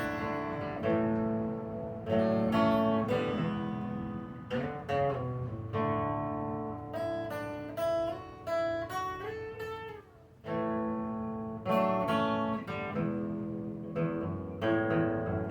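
Acoustic guitar playing an instrumental break: strummed chords, then a picked single-note melody with slides through the middle, a brief gap about ten seconds in, and strummed chords again.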